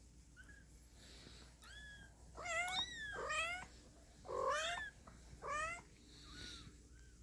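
Newborn kittens mewing: a run of short, high-pitched mews, each rising then falling, with about five louder calls in the middle among fainter ones.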